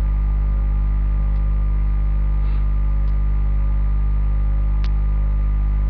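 Steady electrical mains hum with a stack of overtones, with three faint ticks about a second and a half apart.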